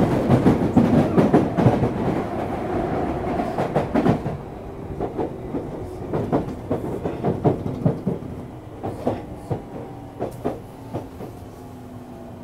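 Tokyu 3000 series electric train running on the rails, heard from aboard: wheels clacking over rail joints over a low rumble. The running noise fades and the clacks come further apart as the train slows, with faint steady motor tones in the second half.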